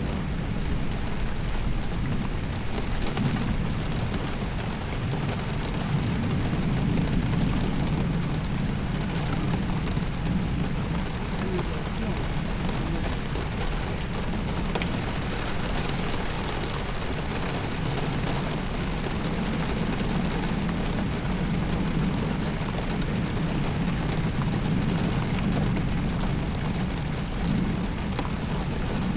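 Steady rain falling: a continuous hiss with a deeper low rush underneath.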